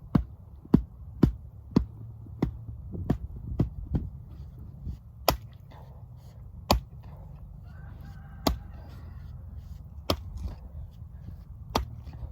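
A tool chopping into frozen pond ice: sharp strikes about twice a second at first, then fewer and further apart, over a steady low rumble. The ice is being broken open so cattle can drink.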